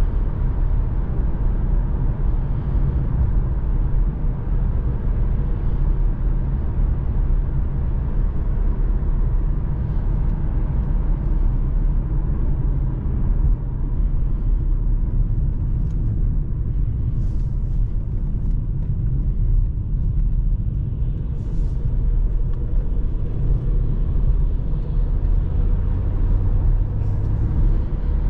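2020 Mercedes-AMG C43's 3.0-litre twin-turbo V6 running while driving, with a steady low rumble of engine and road noise; a low engine tone stands out near the end.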